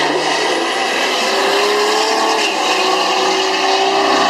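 Diesel pickup truck engine running hard under load, its pitch climbing slowly and then falling back about halfway through, over a steady rush of noise.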